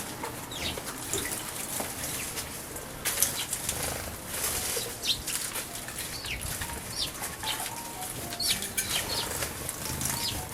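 Eurasian tree sparrows bathing in a bird bath: irregular quick wing-flutters and water splashes, with short chirps scattered through.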